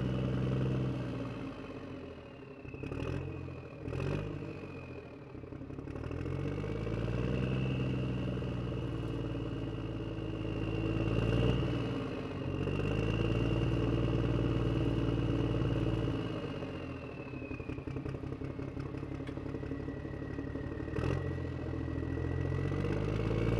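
Toy RC car running, with a high motor whine and an engine-like revving that rises and falls over and over. A few sharp knocks come about three and four seconds in and again near the end.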